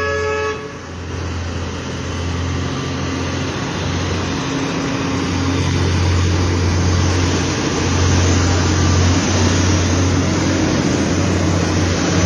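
FAW truck's diesel engine running steadily under load on an uphill grade, a deep low drone with road noise, getting a little louder after about eight seconds. A horn sounds at the start and cuts off about half a second in.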